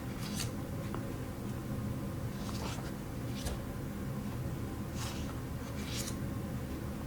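Brief scratchy rustles of thin plastic nail stencil sheets and their packaging being handled, a handful of short strokes a second or two apart, over a steady low hum.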